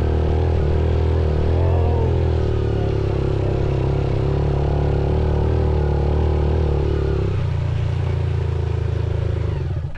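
A motorcycle engine runs at fairly steady revs while riding. About seven seconds in, the note shifts slightly lower, and the sound drops away suddenly at the end.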